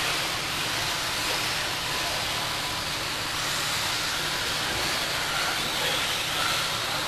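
Electric RC stadium trucks running on a dirt track during a race heat: a steady hiss of motors and tyres, with faint whines that rise and fall as the trucks pass.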